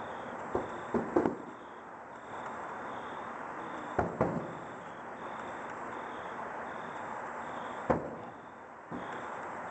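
Distant fireworks going off: about six sharp booms, two close together in the first second and a half, a pair about four seconds in and one near the end, over a steady background hiss.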